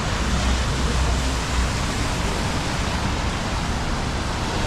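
Steady hiss of rain and city street traffic, with a low engine rumble in the first second and a half.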